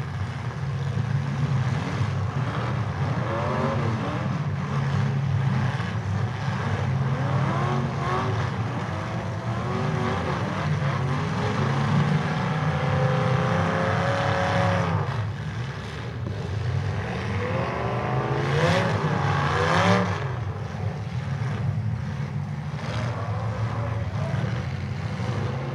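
Several demolition derby cars' engines running and revving at once, their pitches rising and falling as the cars push and ram each other. About three quarters of the way through, one engine revs up sharply, then drops back.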